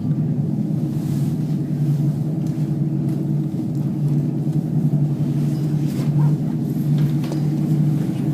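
Aerial tramway cabin travelling along its cables, heard from inside: a steady low hum and rumble, with a few faint clicks about six to seven seconds in.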